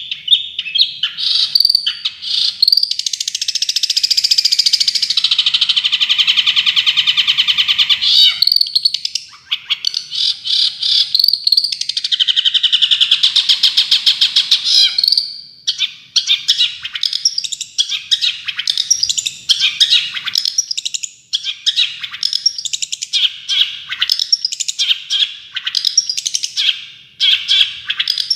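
Songbird song with rapid-fire trilled 'tembakan' phrases: two long, fast trills run for several seconds each, one about 2 seconds in and one about 12 seconds in, with bursts of quick chirps and short phrases between them.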